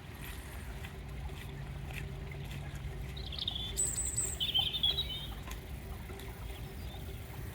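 A few short, high bird chirps about three to five seconds in, over a steady low outdoor rumble.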